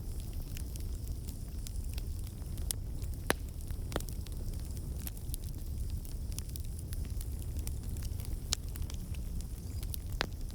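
Campfire burning: a steady low rumble of flames with frequent irregular crackles and sharp pops.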